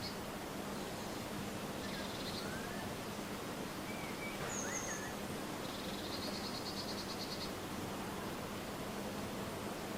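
Small birds calling in a garden: two quick high trills, about two and six seconds in, with a few short chirps and a brief high whistle between them, over steady outdoor background noise and a faint low hum.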